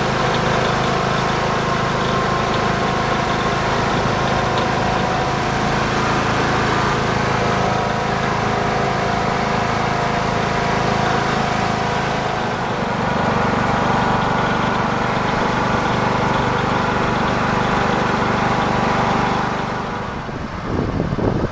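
Small engine of a trackless train ride running steadily as it drives; its pitch shifts about halfway through, and near the end the engine sound drops away into rougher, uneven noise.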